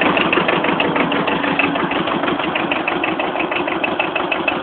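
Kubota B7000 compact tractor's diesel engine running steadily, its firing beating evenly after a cold start with glow plugs.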